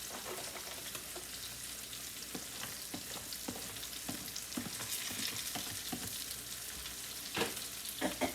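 Fish fillets frying in butter in a pan, with garlic just added: a steady sizzle with small crackles, and a couple of sharper ticks near the end.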